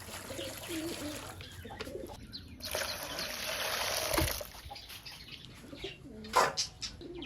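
Domestic pigeons cooing in low, warbling calls. Partway through there is a rustling noise for about a second and a half, and a sharp knock comes near the end.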